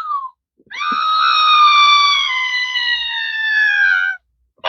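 A novelty sound-effect box playing its effects: the end of a short falling chirp, then, after a brief gap, one long tone that slowly slides down in pitch for about three and a half seconds.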